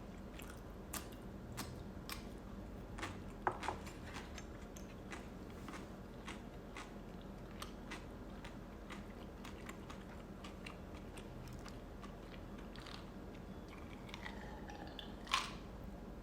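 A person chewing food close to the microphone, with small irregular mouth clicks and a sharper click about a second before the end.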